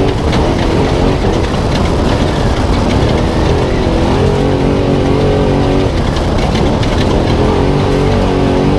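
Spec Trophy Truck's V8 engine running hard at race pace, heard onboard. The revs drop and climb again several times, then hold steady near the end, over a constant clatter of small knocks and rattles.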